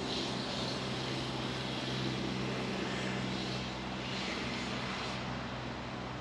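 A steady, low engine drone from a distant motor vehicle or aircraft, over an even background hiss of outdoor air.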